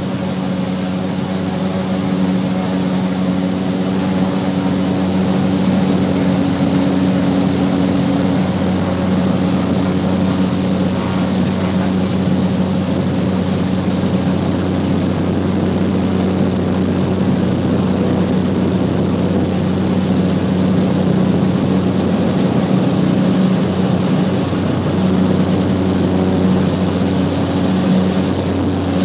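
Cessna 208B Grand Caravan's Pratt & Whitney PT6A turboprop at takeoff power, heard from the cockpit. A steady, loud propeller drone runs under a thin high turbine whine that climbs slightly over the first few seconds and then holds.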